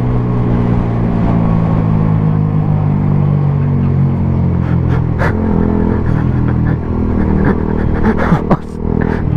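125 cc single-cylinder motorcycle engine with a Mivv GP Pro aftermarket exhaust, running at a steady cruise under way. Near the end the note shifts and the level dips briefly.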